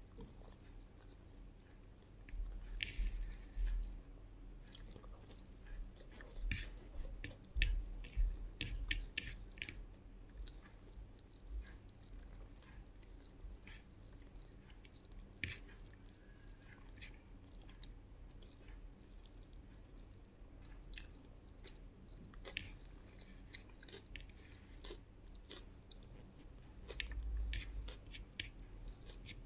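Close-miked chewing and wet mouth smacks of a person eating fried egg, fried fish, tomato and rice. There are many sharp clicks, and they come in louder clusters a few seconds in, again around seven to nine seconds, and near the end.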